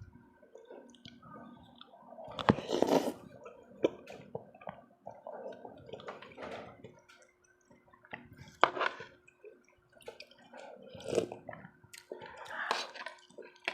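Close-up eating sounds: wet chewing and slurping in irregular bursts, with a few sharp utensil clicks, over a faint steady hum.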